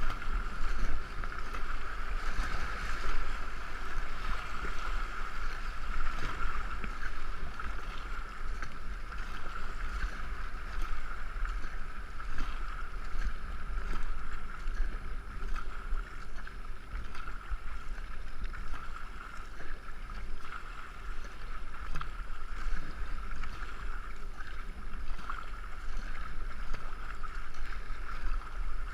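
Canoe under way on a river: steady water noise with a hiss and a low wind rumble on the GoPro microphone.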